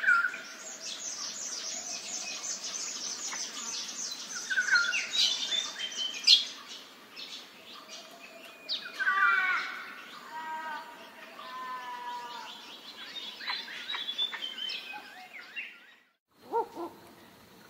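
Several wild birds chirping and singing together in quick, overlapping calls, with a run of repeated pitched calls in the middle. The sound cuts out briefly about a second before the end.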